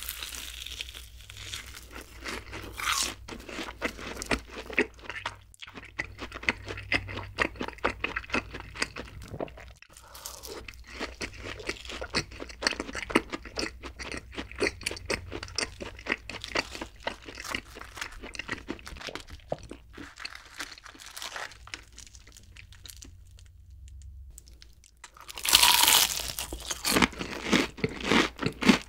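Close-miked eating: a fried cheese ball being chewed with many small, crisp crunches. About 25 seconds in comes a loud, crisp bite into the crust of a fried chicken piece, followed by crunchy chewing.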